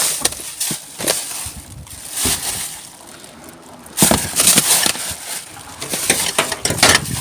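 Rummaging through the contents of a rubbish bin: irregular rustling, crinkling and knocks of items being shifted about. It grows louder about four seconds in.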